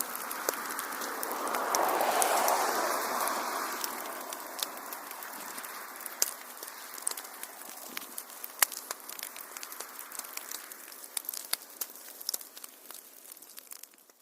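Wood fire crackling and popping, with sharp snaps over a steady hiss that swells for a couple of seconds near the start. The sound then slowly fades and cuts out at the very end.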